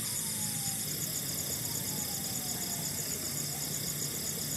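Forest insect chorus: a steady, rapidly pulsing high trilling, with a few faint, slow falling calls under it.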